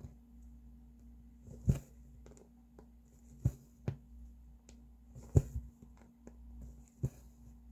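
Cross-stitching: a needle pokes and pulls thread through taut stitching fabric. It makes a sharp tap about every two seconds, with lighter clicks between the taps.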